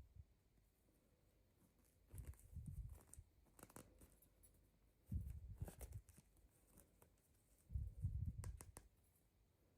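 Quiet handling sounds of toys and packaging being unboxed: a few short clusters of soft bumps, clicks and rustles with pauses between them.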